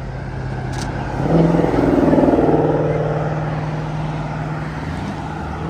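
A car accelerating away under throttle. Its engine note swells suddenly about a second in and fades over the next few seconds, over a steady low hum from another idling engine.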